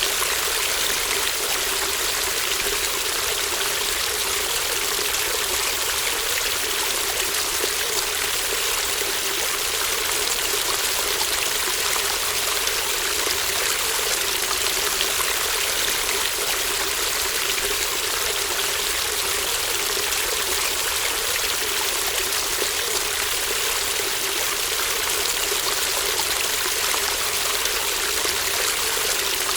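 Shallow brook babbling steadily: an even, continuous rush of running water with a trickling texture.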